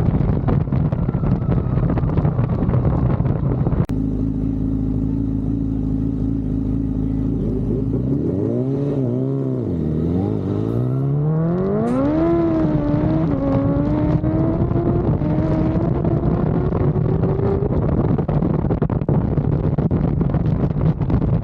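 Wind buffeting the microphone, then about four seconds in a sport motorcycle engine holding a steady pitch. Its pitch dips and rises twice, then climbs steadily as the bike accelerates hard. Wind noise takes over again near the end.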